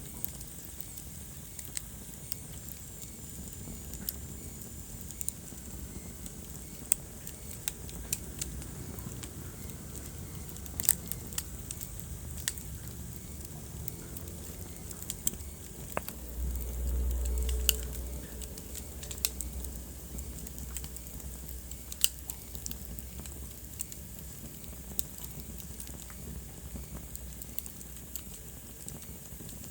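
Wood fire burning in a fireplace: irregular sharp crackles and pops over a low steady rumble of the flames. A little past halfway the low rumble briefly swells louder.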